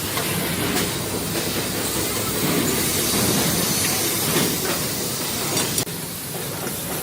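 Steady workshop machinery noise with a hiss, changing abruptly about six seconds in.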